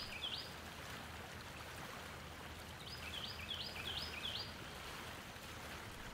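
Faint outdoor ambience: a steady hiss with a bird singing a short phrase of about five quick chirps, heard twice, about four seconds apart.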